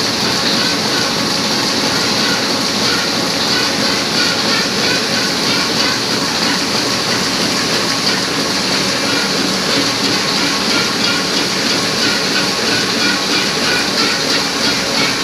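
Heidelberg Speedmaster SM 74 sheet-fed offset printing press running at a steady pace, a continuous loud mechanical clatter with a hiss over it.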